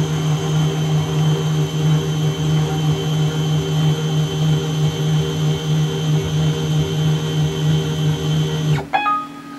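CNC mini milling machine running a programmed cycle: a steady motor whine with a hum and high tones, which cuts off about nine seconds in.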